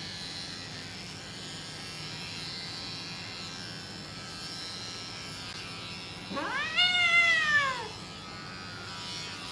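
Electric pet clippers buzzing steadily during a cat's shave. About six seconds in, the cat gives one loud meow that rises and then falls in pitch, lasting about a second and a half.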